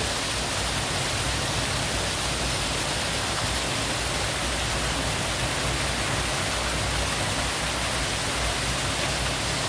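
Water rushing steadily through a canal lock's overflow, a constant even rush of falling water.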